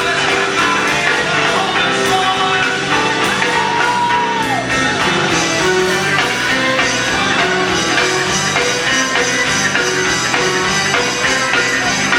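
Live gospel music: a band playing with singing. One voice holds a long note that slides down about four and a half seconds in.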